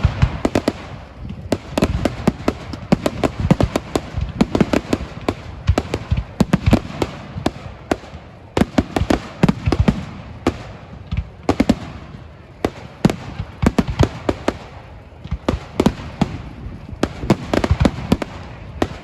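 Fireworks display going off: a rapid run of bangs and crackling bursts, many a second, over a low rumble of explosions.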